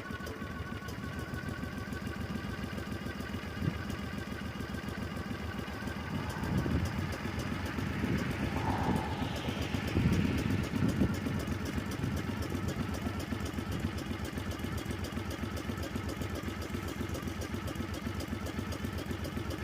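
An 18 hp V-twin engine on a minibike idling steadily, just off choke after its first cold start of the year, running smoothly.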